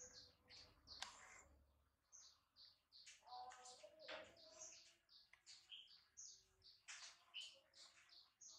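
Faint chirping of small birds: short high chirps, several a second, all through.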